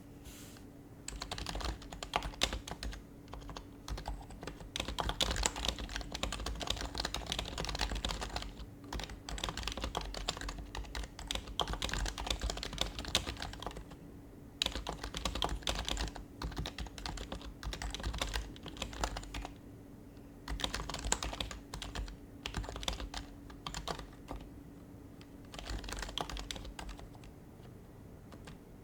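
Typing on an HHKB Professional Hybrid Type-S keyboard, whose quiet Topre capacitive keys give soft, muted keystrokes. The keys go in fast runs broken by short pauses, and the typing stops shortly before the end.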